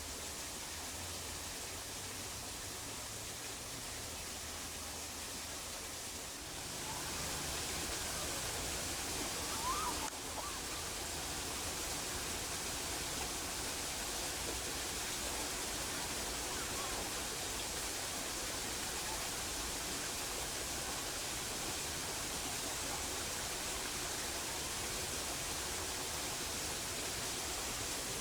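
Steady outdoor hiss of ambient noise that grows louder about six and a half seconds in, with a few faint short chirps near ten seconds.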